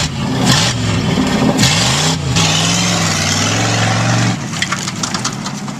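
Carbureted 305 Chevrolet small-block V8 with no exhaust, revved in a few quick surges and then held at high revs for a burnout, with a broad hiss over the engine; it drops back about four seconds in, followed by crackling.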